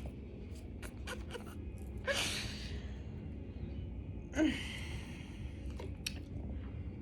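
A woman's breath sounds: two short, breathy gasps or exhales, about two seconds and four and a half seconds in, with a few faint clicks between.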